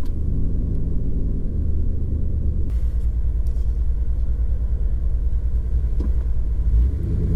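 Steady low rumble of a 2015 Ram 1500's 5.7-litre Hemi V8 through a Carven Competitor Series cat-back exhaust, heard from inside the cab while cruising.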